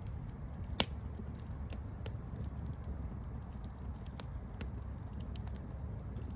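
Wood campfire crackling: a steady low rumble of burning with scattered sharp pops and snaps, one loud pop a little under a second in.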